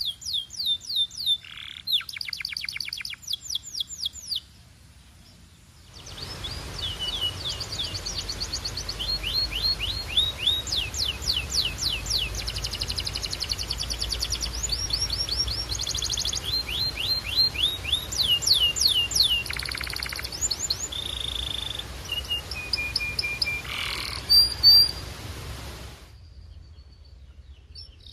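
Canary singing: long rolling trills of rapid, repeated falling notes, switching from one trill pattern to the next every second or two. The song breaks off briefly about four to six seconds in. A steady hiss lies under it through most of the rest.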